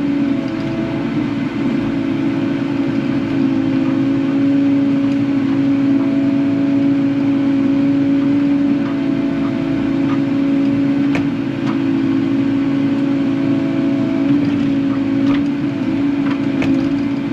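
Kubota KX080 excavator's diesel engine and hydraulics running steadily under digging load, with a steady hum and small shifts in pitch as the controls are worked. A few sharp clicks or knocks come in the second half.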